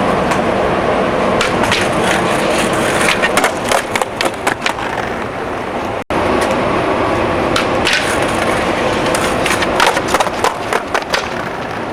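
Skateboard wheels rolling on concrete, then a quick cluster of sharp wooden clacks and scrapes as the board is popped, slid and knocked down. It happens twice, with a brief cut about six seconds in.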